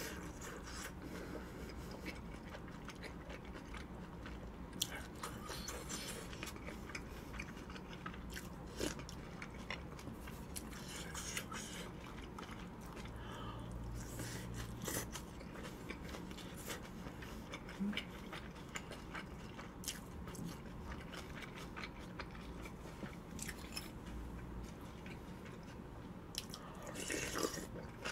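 A person chewing big mouthfuls of chive bibimbap close to the microphone, with wet mouth sounds and many scattered small clicks, a little louder near the end.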